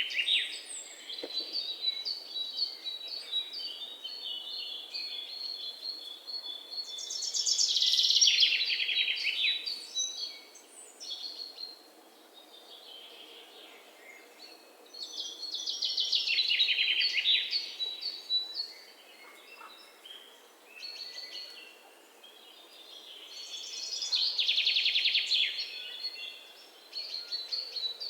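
Songbirds singing: a loud, fast trill falling in pitch repeats about every eight seconds, four times in all, with thin, high chirps between the trills.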